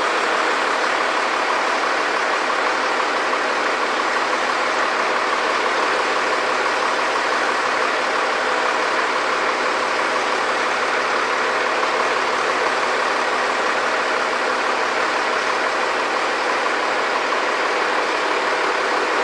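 A large engine running steadily at constant speed, an even drone with no change in pitch or level.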